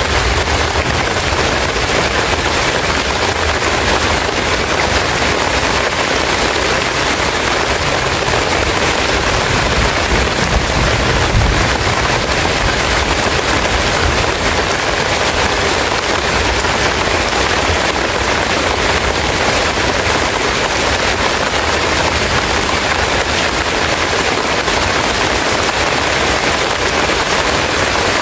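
Heavy rain falling steadily, a dense, even hiss of drops on leaves close to the microphone.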